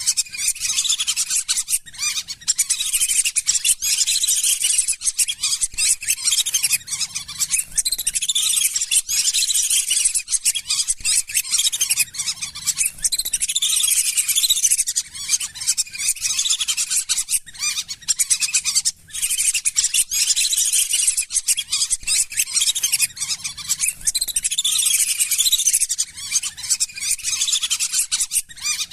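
Lesser whistling ducks calling: a continuous chorus of thin, high whistles, many short notes overlapping, with a brief lull about nineteen seconds in.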